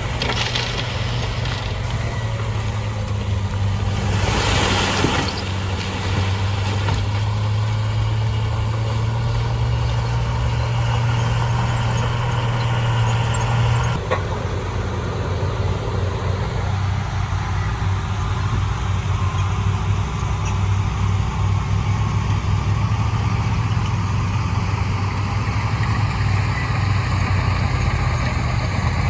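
Heavy diesel engine of earthmoving machinery running steadily under load, with a brief hiss about four seconds in and a change in the engine note about halfway through.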